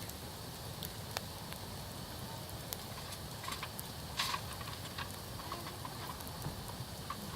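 Wood campfire crackling: scattered sharp pops and snaps, the loudest cluster about four seconds in, over a steady low rumble.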